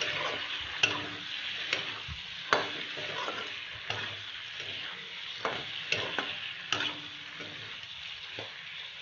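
Chicken and potato pieces sizzling in oil in a metal kadai as a metal spatula stirs them, with sharp scrapes and clinks of the spatula against the pan at irregular intervals over a steady hiss.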